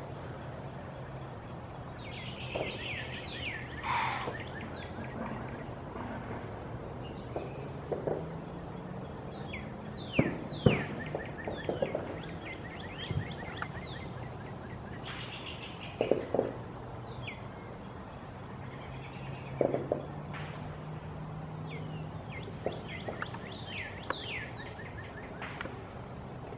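Birds chirping in repeated short, falling chirps over a steady low hum. A few sharp knocks stand out, about 10, 16 and 20 seconds in.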